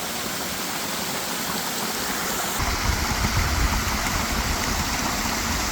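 Creek water rushing steadily, with a deeper rumble coming in suddenly about two and a half seconds in.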